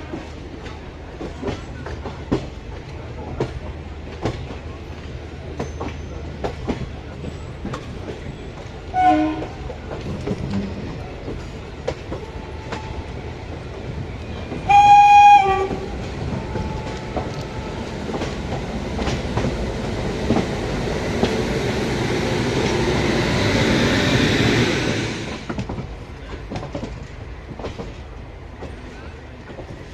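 Express train running at speed, wheels clicking over rail joints, with a short faint horn note and then a louder horn blast about halfway through. A rushing noise builds for several seconds and cuts off suddenly near the end.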